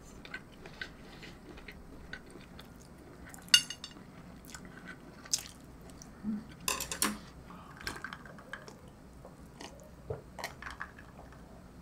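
Close-miked chewing and biting of food, with scattered small clicks of chopsticks against a dish, the sharpest about three and a half seconds in; near the end, sips from a glass.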